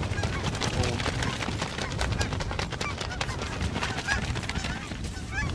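A large flock of geese honking and calling, many overlapping short calls at once, over a low rumble of wind on the microphone.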